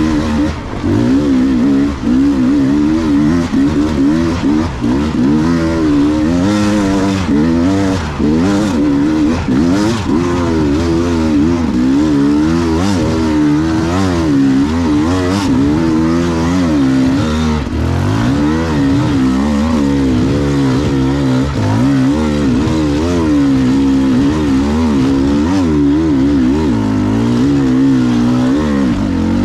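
Beta 300 two-stroke enduro motorcycle engine under constant on-off throttle, its pitch rising and falling every second or so as the rider works it through technical riding.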